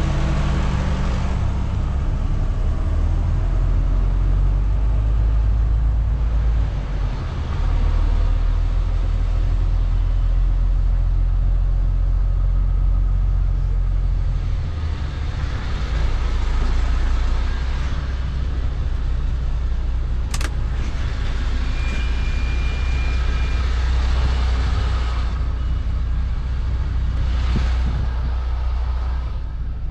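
Heavy goods lorry's diesel engine running steadily, its low note shifting about seven and fifteen seconds in. A single sharp click comes about twenty seconds in, followed by a short high beep.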